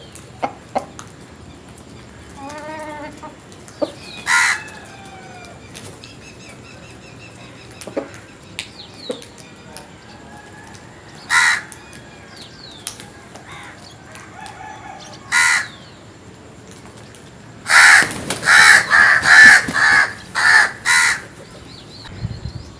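Loud, harsh bird calls: single calls about 4, 11 and 15 seconds in, then a rapid series of about seven calls near the end. Quieter chirps and whistles of small birds run underneath.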